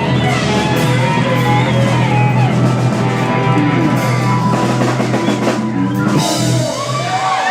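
Loud rock music with a drum kit and guitar. It stops near the end as cheering and whoops begin.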